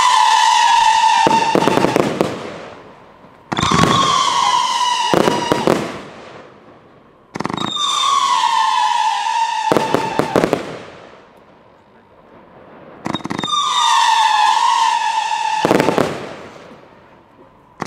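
Consumer fireworks cake firing volleys of shots, each starting suddenly with a shrill whistle that falls slightly in pitch over two to three seconds, then a cluster of sharp bangs and crackles as the shots break. About four volleys come in, roughly every four seconds, with a longer gap in the middle.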